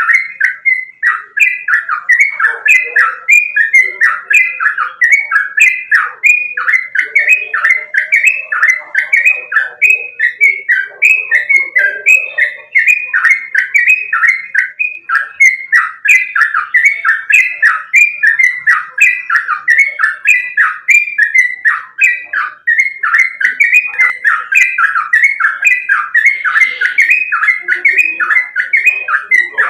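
Sooty-headed bulbul singing loudly in a fast, unbroken run of short chattering notes, each dropping in pitch, about three a second.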